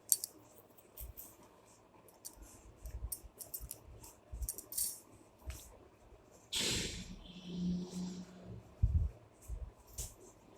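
Light clicks, taps and scrapes of a spoon against a glass while gram flour is spooned in, with a louder rustle about six and a half seconds in.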